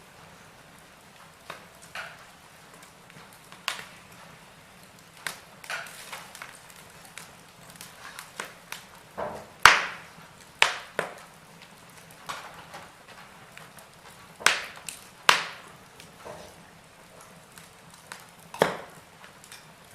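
Wood fire in a fireplace crackling: irregular sharp pops and snaps with quieter ticks between, the loudest pop about halfway through.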